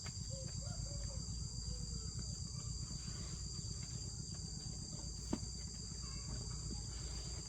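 Steady, high-pitched chorus of insects such as crickets or cicadas, over a low rumble, with one sharp click about five seconds in.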